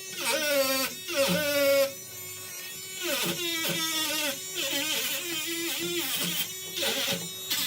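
Small handheld electric tool whining, its pitch sagging and recovering again and again as it is worked against the metal.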